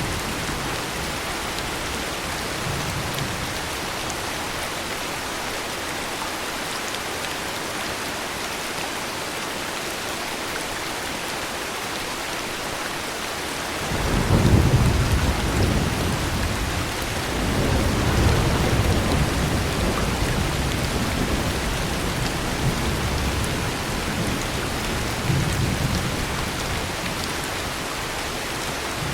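Steady heavy rain falling, with a long roll of thunder that breaks in suddenly about halfway through, rumbles in two swells and dies away near the end.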